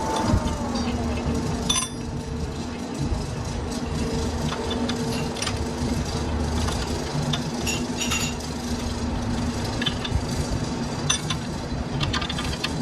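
Workshop machinery running with a steady hum, with scattered metallic clinks and taps.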